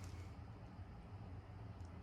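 Casablanca Victorian ceiling fan running on low speed (speed 2): a faint, steady low motor hum.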